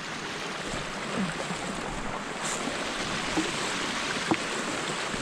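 Steady rustling and swishing of dry field grass and brush against legs and clothing as a person walks through a field, with a few faint snaps and clicks.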